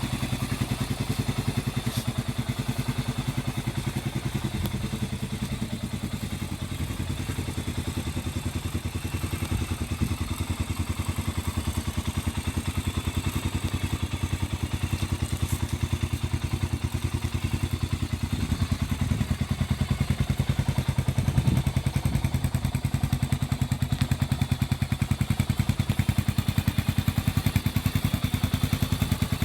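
Honda CB400SS single-cylinder engine idling through a Moriwaki Short Classic full exhaust, a steady, even train of low exhaust pulses.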